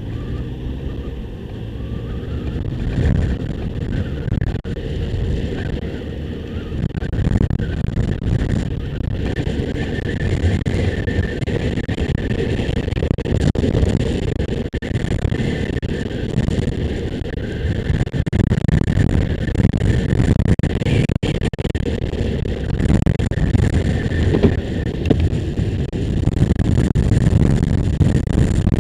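Motorcycle running along the road, a steady engine rumble mixed with wind noise on the microphone.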